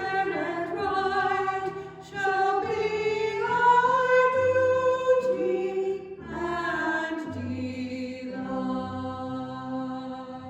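Singing of a slow sacred song, held sung notes over steady low accompanying notes, tapering off near the end.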